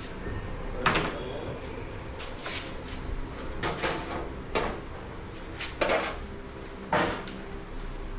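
Workshop clatter: about six separate sharp knocks and clanks of tools or metal parts being handled, spread over several seconds, over a steady low hum.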